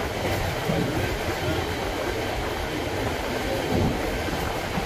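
Moving passenger train heard from inside a third-class carriage: the steady running noise of the wheels on the rails and the carriage in motion.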